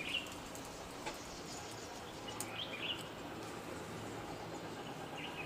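Songbirds chirping outdoors: three short high chirps a couple of seconds apart, with a few faint clicks, over a steady low background hum.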